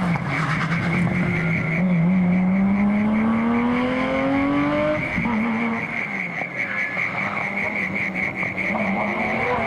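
Porsche 911 GT3 rally car's engine pulling hard past, its pitch climbing for a few seconds, then dropping suddenly about halfway through at a gear change before holding lower. A steady high whine runs under it.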